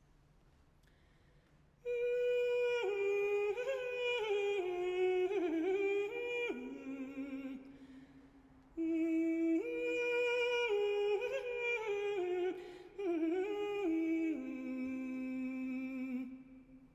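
A single unaccompanied voice singing a wordless melody in two phrases, each stepping down in pitch and ending on a long held low note.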